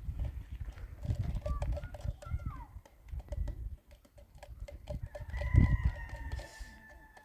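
Bird calls: short falling chirps about two seconds in, then one long held call starting about five seconds in. Scattered clicks and low knocks sound throughout.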